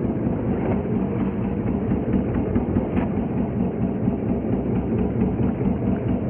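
Fishing boat's engine running steadily at low speed.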